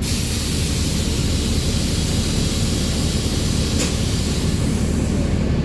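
Mercedes-Benz 1724L bus engine running with a steady low drone, a broad hiss over it that fades out near the end, and a single click about four seconds in.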